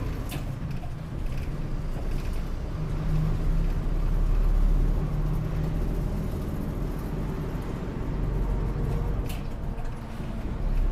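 Route bus running between stops, heard from inside the cabin: a steady engine and road drone that gets louder about four seconds in, with a couple of short clicks.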